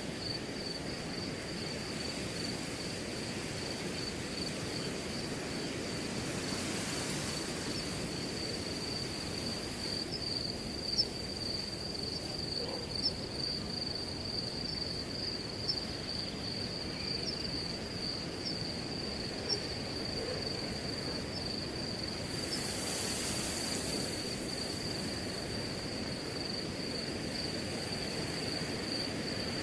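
Crickets trilling steadily at a high, even pitch over a low rush of wind. Grass rustles in two short gusts, one about a quarter of the way in and one near three quarters. A few sharp faint ticks fall in the middle.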